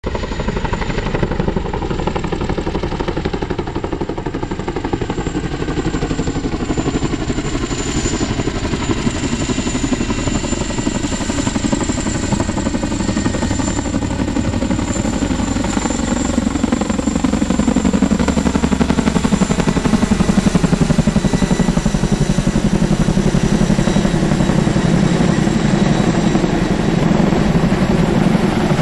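CH-47 Chinook tandem-rotor helicopter running loud and steady, with rapid rotor blade chop over turbine whine; it grows somewhat louder about two-thirds of the way through as the pitch of its tones drifts.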